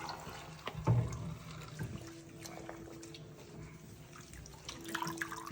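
Bathwater splashing and dripping as a small monkey is bathed, with a few sharper splashes about a second in and near the end.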